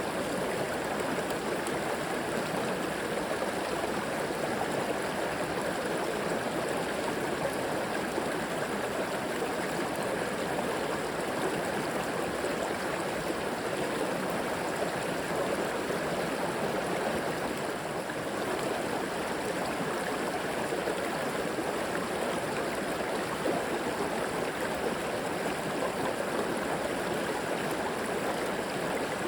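River water flowing and rushing over rocks: a steady, even babble.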